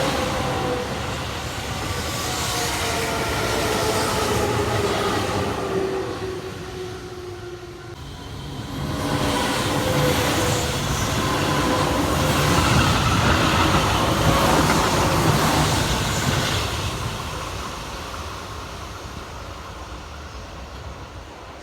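Keihan electric trains passing: a motor whine falling in pitch over the first several seconds as one train goes by, then a second train running past from about nine seconds in, fading away toward the end.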